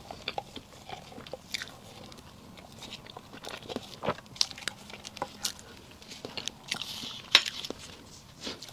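Close-miked chewing and mouth sounds of someone eating soft, chewy strawberry cake, with irregular wet clicks and smacks.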